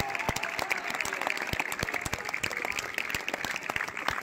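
Football crowd applauding, many hands clapping fast, with a held shout from the crowd fading out in the first second.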